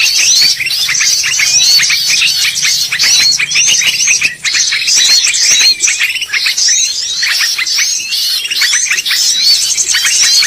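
Bar-winged prinia (ciblek) calls used as a bird lure. The song is loud and continuous: rapid high-pitched chirps and short rising and falling notes follow one another without pause.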